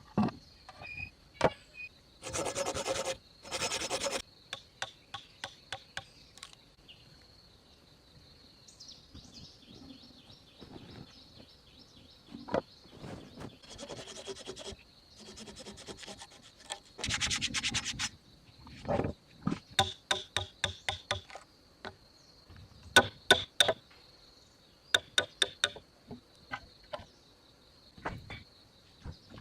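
Wood being worked with hand tools: scattered rasping strokes about a second long, and runs of sharp clicks and knocks. A steady high insect drone runs underneath.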